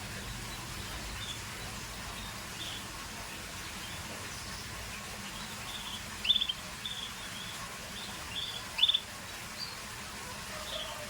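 Scotch Fancy canary giving scattered short chirps, two louder ones in the second half, over a steady background hiss.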